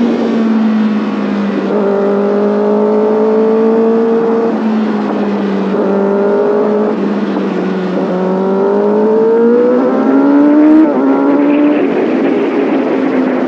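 Kawasaki Ninja ZX6R's inline-four engine pulling under acceleration, its pitch climbing and dropping back several times as it shifts through the gears.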